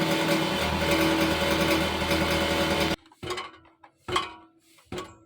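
Toyota Camry exhaust clanking with a dense metallic rattle over the running engine for about three seconds, caused by a loose rusted plate inside the resonator vibrating at cold start. It cuts off abruptly, and three separate knocks follow, each ringing briefly.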